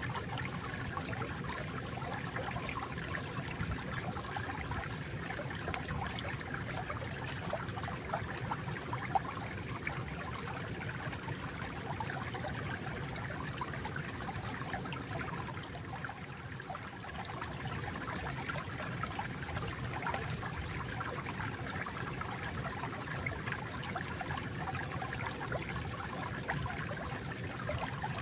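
Water flowing and trickling in a steady stream, with fine bubbling detail and a brief lull a little past halfway.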